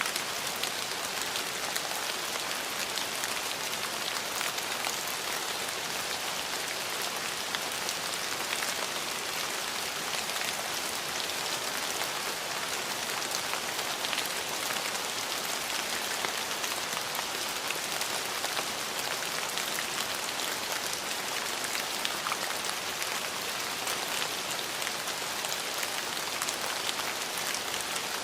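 Steady rain falling and pattering on surfaces, an even hiss full of fine drop ticks, without changes in intensity.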